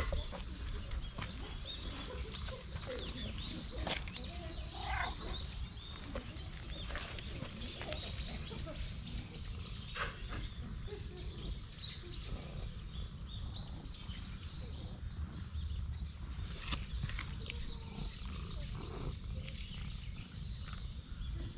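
Small birds chirping repeatedly in the trees, over a steady low rumble, with scattered clicks and rustles.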